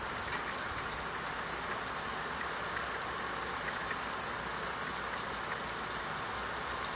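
Steady rain, an even hiss with faint drop ticks here and there.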